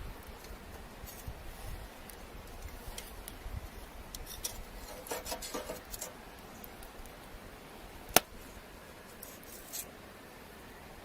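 Wood campfire crackling, with scattered small pops, a short cluster of crackles midway and one sharp loud pop about eight seconds in.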